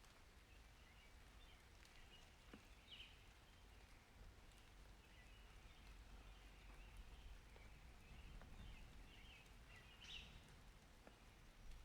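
Faint outdoor ambience after rain: scattered short bird chirps, most distinct about three and ten seconds in, over a low steady rumble with a few soft clicks.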